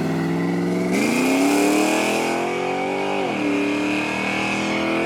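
A car engine pulling away under hard acceleration. It holds steady at first, climbs in pitch for about two seconds from a second in, then drops sharply as it shifts up and carries on at a steady note.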